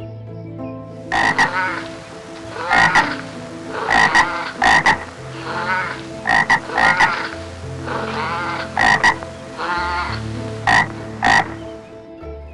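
Frog croaking repeatedly in short calls, many in quick pairs.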